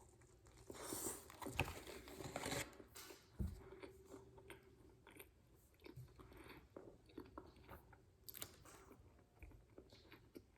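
Biting into and chewing a fried chicken sandwich on glazed donut halves, close to the microphone: a few louder crunchy bites between about one and three seconds in, then quieter, irregular chewing.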